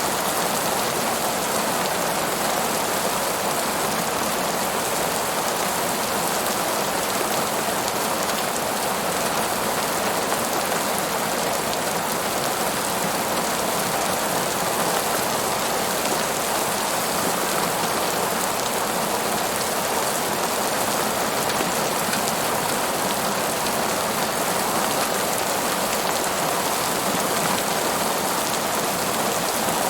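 Steady rain falling and pattering on a surface, an even hiss with no letup.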